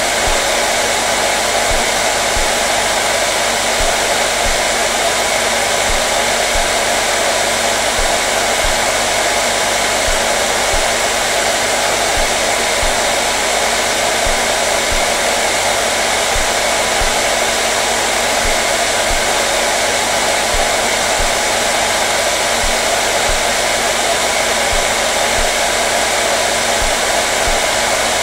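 Hair dryer running steadily, a dense even whoosh of air with a steady motor hum underneath, not changing in pitch or loudness.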